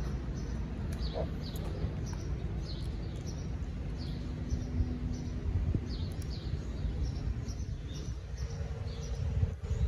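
Small birds chirping, a string of short falling calls repeating every half second or so, over a steady low outdoor rumble.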